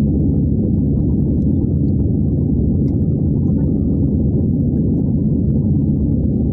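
Steady low rumble of jet engines and airflow heard inside the cabin of an Airbus A320 in flight, constant throughout with no change in pitch or level.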